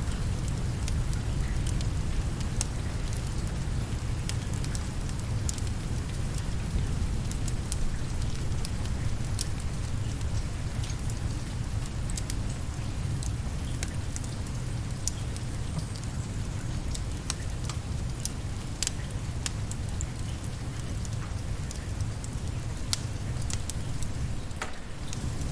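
Steady rain with a low rumble, mixed with the scattered sharp crackles and pops of a wood fire burning in a fireplace.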